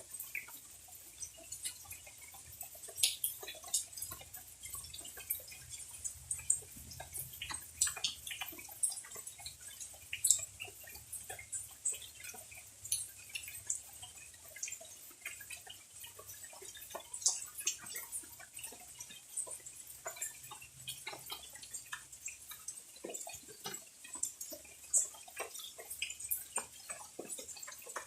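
Rainwater dripping just after a heavy rain: many irregular drops, some louder than others, falling in quick succession.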